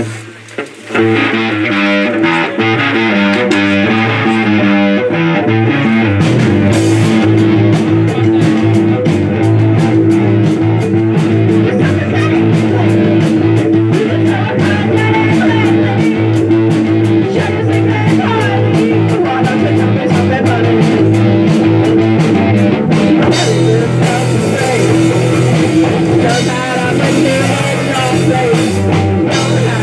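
Rock band playing live, with guitar and a drum kit; the drums come in about six seconds in.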